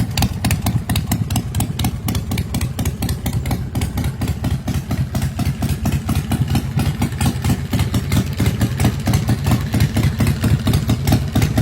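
Custom bobber's 127 cubic inch Ultima V-twin idling, a steady, rapid run of loud exhaust pulses.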